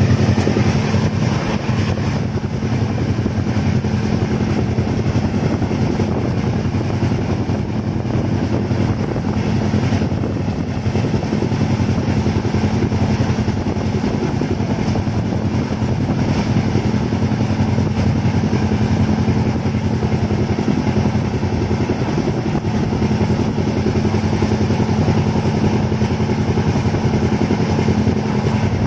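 Indian Railways passenger coach running at speed, heard from a window seat: a steady rolling noise of wheels on rails with a constant low hum.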